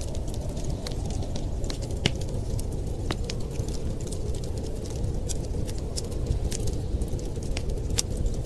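Wood fire crackling, with irregular sharp pops and snaps, a few louder than the rest, over a steady low rumble.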